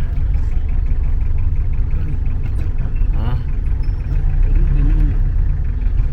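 Steady low rumble of a vehicle in motion, with faint voices in the background.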